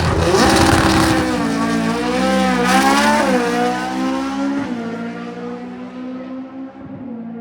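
Drag race car accelerating hard down the strip, its engine pitch climbing, then dropping sharply at gear shifts about three and about four and a half seconds in, and fading as the car pulls away.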